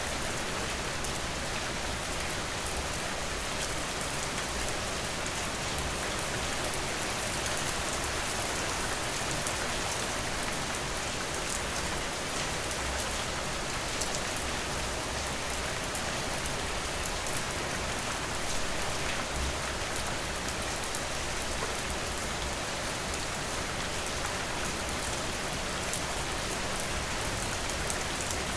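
Steady rain falling on a surface, an even hiss with many fine drop ticks scattered through it.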